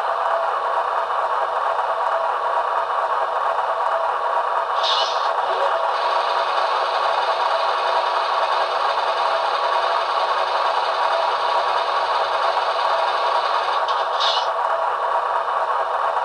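Idling diesel locomotive sound from an HO scale model's Paragon2 sound decoder, a steady, thin engine drone through the model's small speaker. Two short, higher hisses come about five seconds in and again about fourteen seconds in.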